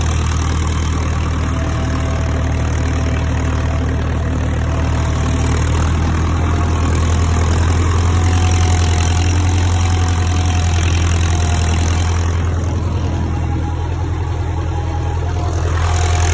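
Farm tractor's diesel engine running steadily with a constant low drone while pulling a plough through fallow ground; its higher-pitched noise dips briefly about three-quarters of the way through.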